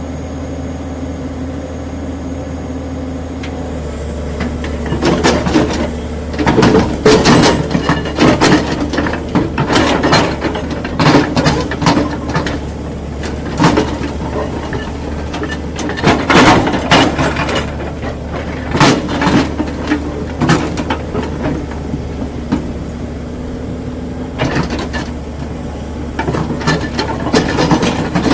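Excavator's diesel engine running steadily, with irregular loud clanks and knocks from about five seconds in.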